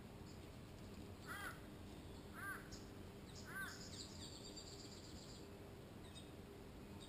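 A bird gives three short cawing calls about a second apart, then high thin chirping follows for a second or two.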